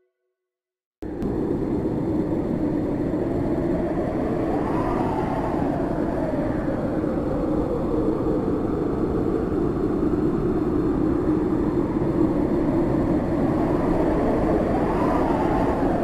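Strong wind blowing: a steady rushing noise that starts abruptly about a second in, with a whistling tone that rises and falls twice.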